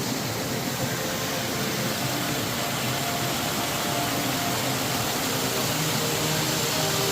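A steady rushing noise with no distinct events, growing slightly louder towards the end, with a few faint held tones under it.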